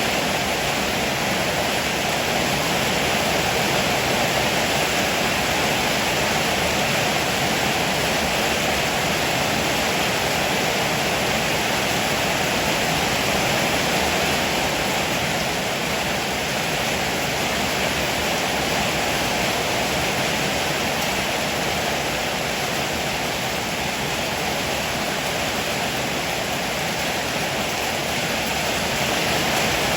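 Heavy rain pouring steadily, an even hiss with no distinct drops or thunderclaps standing out.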